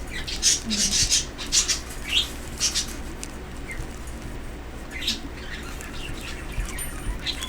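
Pet birds chirping: a cluster of short, high, sharp calls over the first few seconds, then single chirps about five seconds in and near the end, over a low steady hum.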